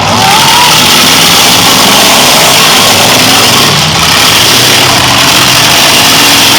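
Demolition derby cars' engines running and revving, very loud, under a dense wash of noise.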